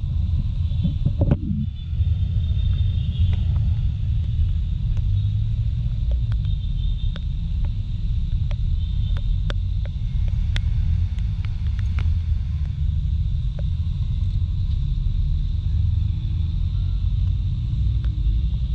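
Steady low wind-and-road rumble of a Kymco Like 125 scooter ride in the rain, with scattered sharp ticks throughout.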